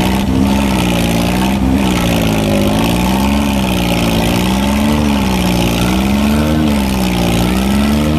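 Tractor engine running hard and steady, its pitch swinging up and down about every second and a half.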